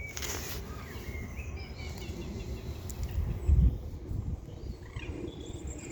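Small birds chirping and calling intermittently over a low, steady rumble on the microphone, with one dull thump about three and a half seconds in.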